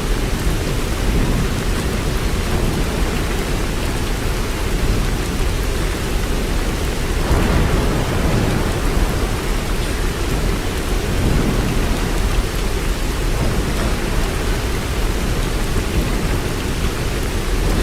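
Steady heavy rain with a deep low rumble beneath it, like a distant thunderstorm, swelling slightly about halfway through.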